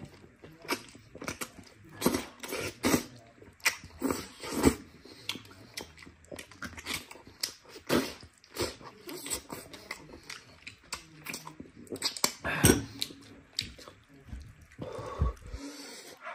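Close-miked eating sounds: wet chewing, lip-smacking and sucking as meat and tendon are bitten and torn off a braised sheep leg bone, in quick irregular smacks with a few louder ones.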